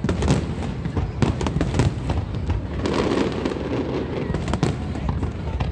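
Fireworks display: a rapid, continuous series of sharp bangs and crackles from bursting aerial shells, over a low rumble.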